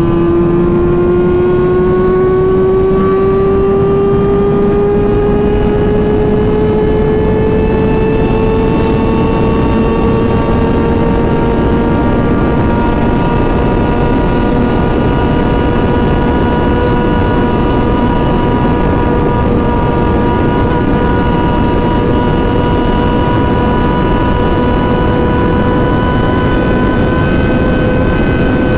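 Sportbike engine held at high revs, its note climbing slowly through the first half and then holding steady at speed, under heavy wind rush.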